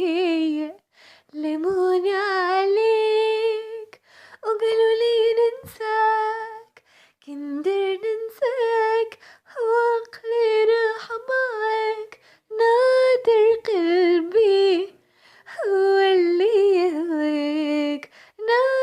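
A woman singing unaccompanied in a small room. Her voice moves through short, ornamented phrases with a wide vibrato, with brief breaths or pauses between them.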